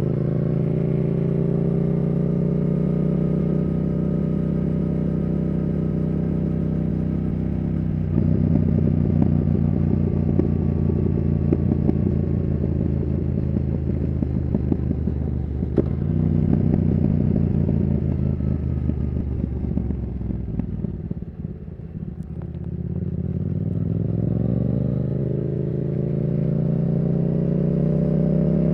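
Yamaha R7's CP2 parallel-twin engine through a Yoshimura R77 exhaust, running under way on the road. It runs steadily, gets louder on more throttle about eight seconds in, drops off to a low note around three-quarters of the way through, then climbs steadily in pitch as the bike accelerates toward the end.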